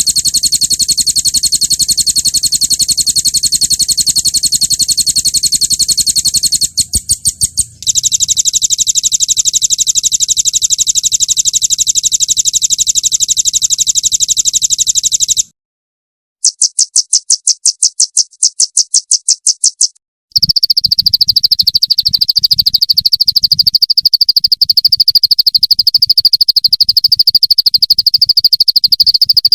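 Recorded songbird song in very fast, high trills of rapid-fire repeated notes ('roll tembak'), spliced into blocks that stop and restart abruptly, with a short gap about halfway through and a steadier, lower trill over the last third.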